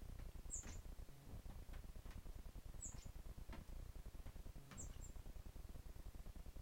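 Common blackbird giving three short, very high-pitched calls, about two seconds apart.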